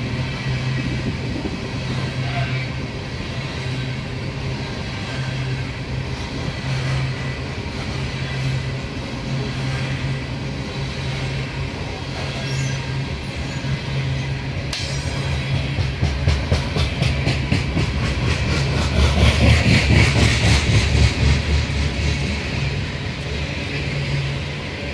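Loaded freight train of coal cars rolling past: a steady rumble of steel wheels on rail, joined about fifteen seconds in by a fast, even clickety-clack of wheels over rail joints that grows louder and is loudest about twenty seconds in.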